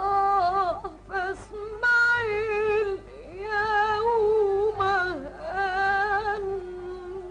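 A woman singing an Arabic tarab song in several ornamented, wavering phrases with short breaks between them, from an old film soundtrack recording.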